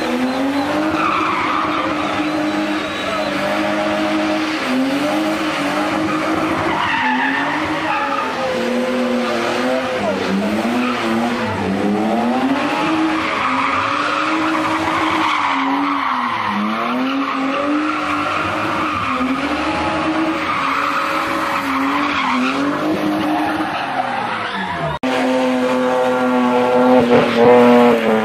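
A BMW 3 Series engine revving hard during spinning, its pitch rising and falling again and again over the hiss and squeal of tyres skidding on tarmac. Near the end a second BMW's engine holds a steady high rev and grows louder.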